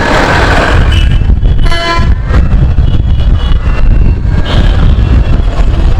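Steady low rumble of a motorcycle riding through traffic, with wind on the microphone. A vehicle horn sounds briefly about two seconds in, and fainter horns are heard around it.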